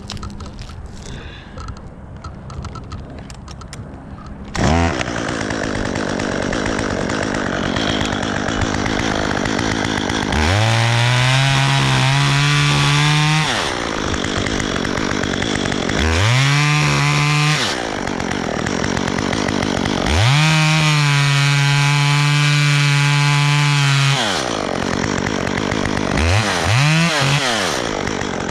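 Two-stroke chainsaw starting up about four and a half seconds in, then running at idle. It is revved to full speed four times, the longest for about four seconds.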